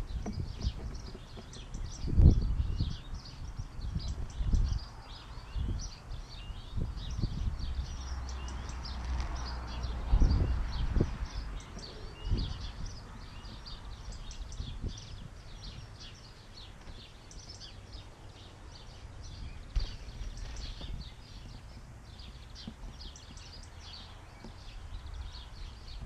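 Garden birds chirping steadily in many short, high calls, over irregular low buffeting of wind on the microphone that is loudest about two and ten seconds in.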